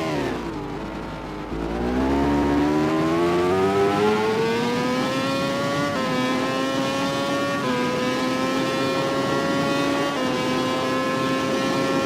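MotoGP four-stroke racing motorcycle engine: it drops in pitch and quietens as the bike slows, then accelerates hard out of the corner, the pitch climbing and dipping briefly at each of three upshifts.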